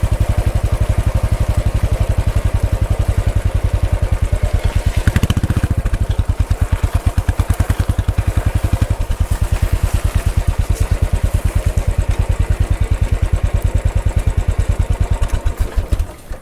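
Royal Enfield Bullet 500's single-cylinder four-stroke engine running at a steady, even beat, with a short heavier patch about five seconds in; near the end it is switched off and stops abruptly.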